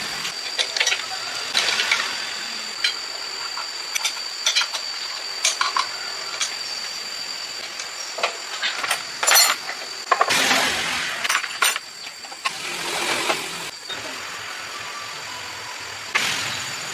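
Workshop sounds: metal parts clinking and tapping at irregular times, with a few longer bursts of hissing noise, the loudest about ten seconds in, over a faint steady high whine.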